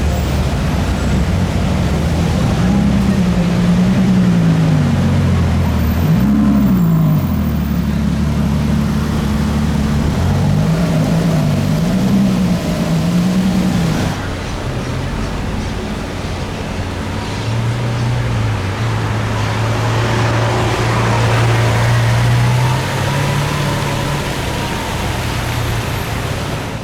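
Supercar engine being revved: several rev blips that rise and fall in pitch in the first half. Then a quieter, steadier engine note takes over for the rest of the stretch.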